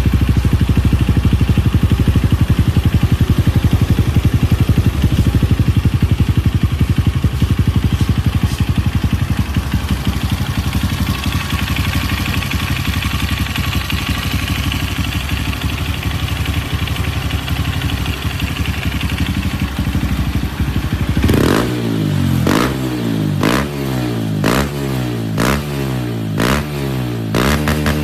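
Honda CRF150L's single-cylinder four-stroke engine idling through a Norifumi Noctus aftermarket exhaust with a steady, even pulsing note. About three-quarters of the way in it is revved in repeated quick throttle blips, roughly one a second.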